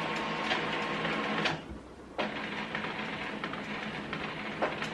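Epson WorkForce WF-3620 inkjet printer running its internal start-up routine after power-on: a steady mechanical whir with a faint hum. It stops briefly about a second and a half in, then starts again.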